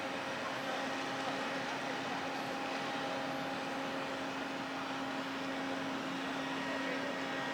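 Steady mechanical drone of a large ship's machinery: a constant low hum with several fainter steady higher tones over an even rumble, unchanging throughout.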